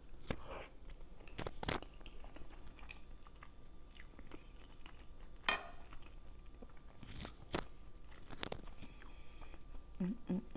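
A person chewing and crunching on seafood, with scattered sharp mouth clicks and smacks every second or so. A short hum or murmur of a voice comes in near the end.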